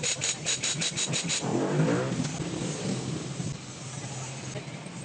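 An engine running steadily, rising briefly in pitch about one and a half seconds in, with a rapid run of sharp clicks, about seven a second, in the first second and a half.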